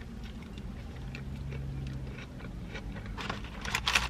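A person biting into and chewing a mouthful of burger close to the microphone, with soft wet mouth clicks. A few sharper, louder crackles come near the end.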